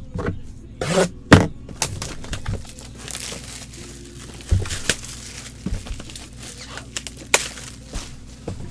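Plastic packaging crinkling and tearing as a boxed jersey is unwrapped, with scattered knocks and clicks from handling.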